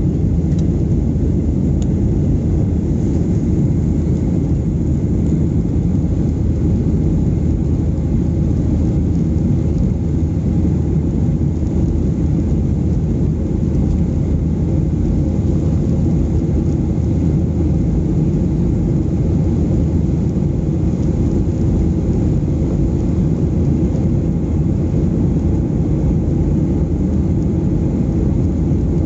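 Steady low cabin roar of a Boeing 737-800 airliner in flight: engine and airflow noise heard from inside the cabin, even throughout.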